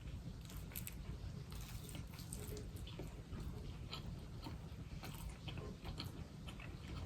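Close-miked chewing of a cheese quesadilla: soft, wet mouth sounds with scattered small clicks.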